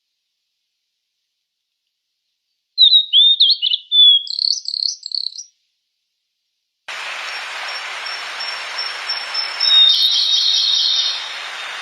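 Blue flycatcher (sulingan/tledekan) singing: a short phrase of quick, warbled whistle notes about three seconds in. After a pause, a steady hiss starts, with thin high whistled notes over it that are loudest around ten seconds in.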